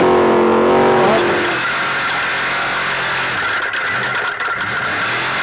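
Trophy truck's race engine running hard at high revs for about a second and a half. Its note then drops away under a steady noisy rush.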